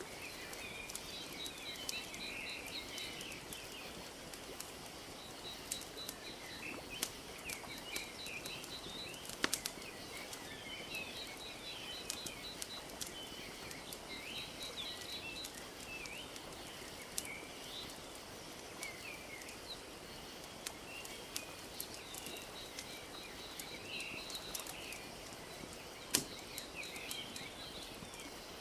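Wood fire crackling with scattered sharp pops, the loudest about a third of the way in and near the end, over a steady soft wash of lake water lapping. Small birds chirp throughout, with a repeated short high trill.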